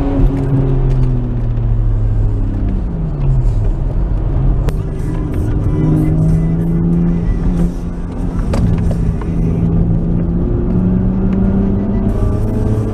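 Nissan Skyline R33's RB20E 2.0-litre SOHC straight-six heard from inside the cabin on track: the engine note falls steadily over the first few seconds as the car slows for a corner, holds at a steady pitch through the bend, then rises again near the end as it accelerates out. A few short sharp clicks come in the middle.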